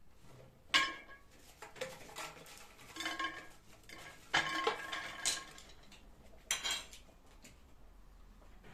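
A series of sharp clinks and clatters of hard objects knocked together, about half a dozen over several seconds, some ringing briefly, like dishes or cutlery being handled.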